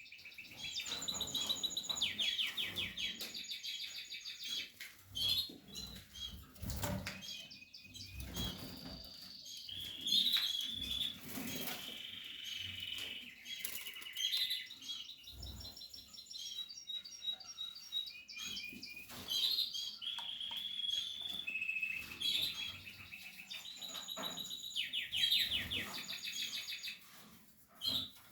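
Canaries singing and chirping in rapid trilled phrases of quickly repeated notes, with a few soft thumps.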